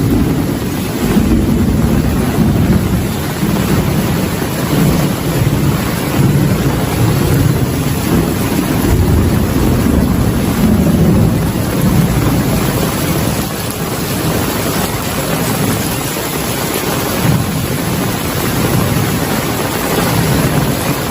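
Heavy rain pouring steadily, with a low rolling rumble of thunder underneath that swells and fades over and over.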